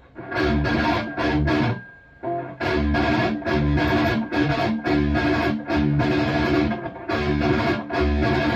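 Distorted electric guitar played through a Bogner Uberschall preamp module, chugging palm-muted riffs. A short pause comes about two seconds in, then the riffing runs on without a break.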